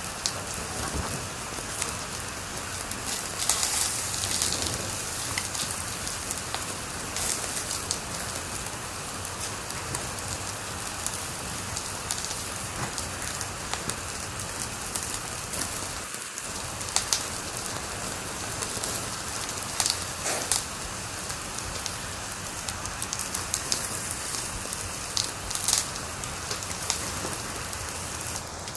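Wood fire crackling in a fireplace: a steady hiss with frequent sharp pops and snaps at irregular moments.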